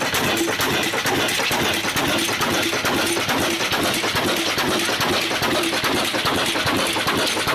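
Old Ruston & Hornsby stationary diesel engine running steadily, with a dense, even mechanical clatter.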